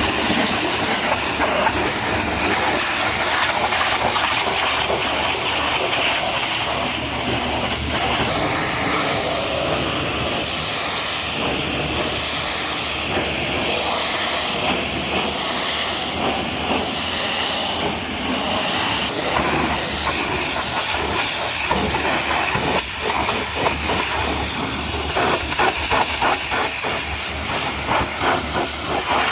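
High-pressure washer jet spraying a truck's bodywork: a loud, steady hiss of water that flutters unevenly in the last several seconds as the spray plays over different surfaces.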